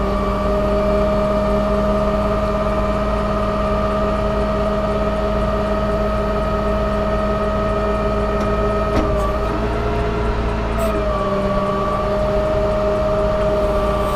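Cummins diesel of a utility bucket truck running steadily at raised speed to drive the hydraulics of the Versalift aerial boom as it is operated, a constant drone with a steady higher tone. About nine seconds in the pitch sags and wavers briefly, with a couple of light clicks, then settles again.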